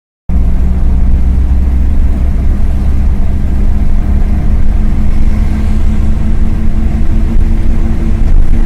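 Car driving steadily: a loud, even low engine and road rumble with a steady hum, cutting off suddenly at the end.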